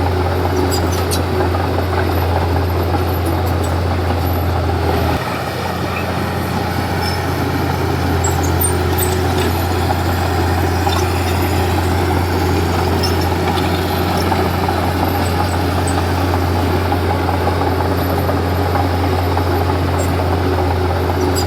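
Komatsu D31P bulldozer's diesel engine running steadily with a deep hum. About five seconds in the sound dips, then slowly builds back up.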